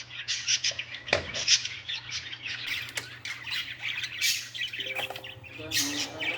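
Birds chirping: a quick run of many short, high calls, with a single sharp click about a second in.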